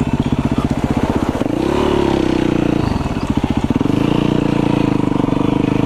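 2008 Yamaha WR450F's single-cylinder four-stroke engine running at low revs with a pulsing beat, picking up briefly about a second and a half in, dropping back, then holding steady.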